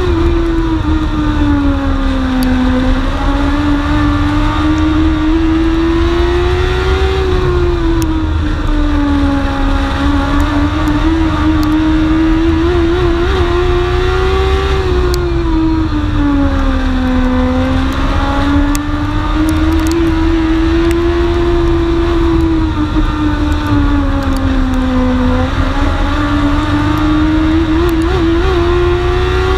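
Dwarf race car's motorcycle engine heard from on board at racing speed, its pitch rising and falling in a steady repeating cycle every several seconds as it accelerates and lifts around the oval, over low wind and road rumble.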